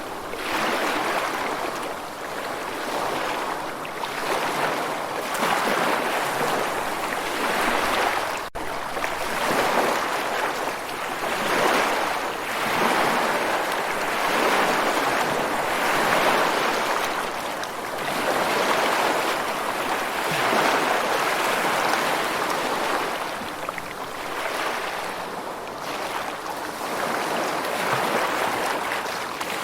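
Ocean surf: waves washing in and drawing back, the rush swelling and fading every couple of seconds, with a momentary cut in the sound about eight seconds in.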